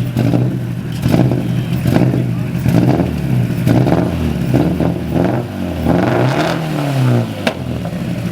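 1300-horsepower widebody Subaru revved through its exhaust in repeated short blips, about one a second, the engine pitch rising and dropping back each time, with a longer rev that falls away near the end.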